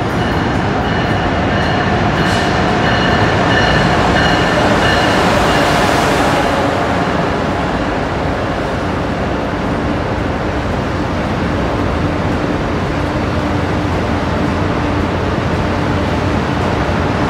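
Amtrak Acela trainset pulling into the station: the leading power car passes with a steady whine during the first six seconds or so, the loudest part. The passenger cars then roll past with a steady noise of wheels on rail.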